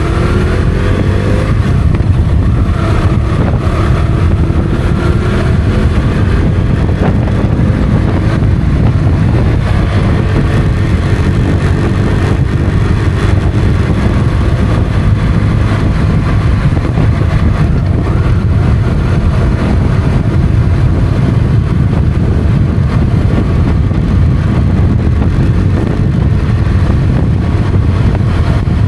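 Motorcycle engine running on the road, its pitch rising over the first couple of seconds as it accelerates, over a steady heavy low rumble.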